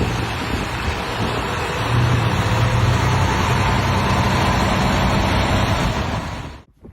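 Steady motor-vehicle engine hum under a loud, even rushing noise, which cuts off abruptly near the end.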